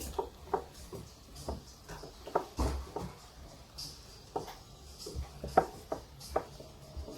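Light clicks and taps at irregular intervals, about one or two a second.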